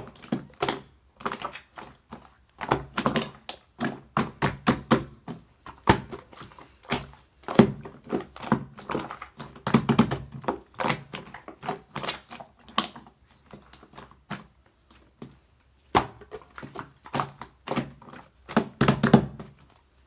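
Hands squishing and poking slime: an irregular, rapid run of sticky clicks and pops, with a brief pause about two-thirds of the way through.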